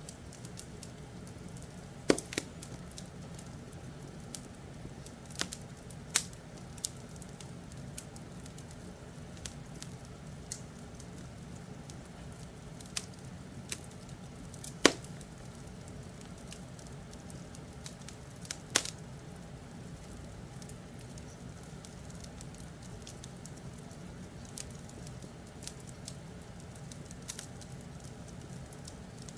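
Wood fire crackling: sharp, irregular pops and snaps, a few of them much louder, over a steady low background hum.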